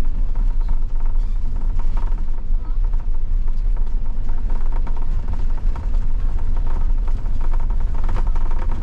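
A car driving on a snowy road, heard from inside the cabin: a steady low rumble of engine and tyre noise.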